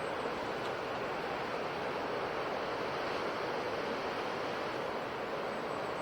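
Ocean surf washing on a shore: a steady, even rushing of waves with no single distinct crash.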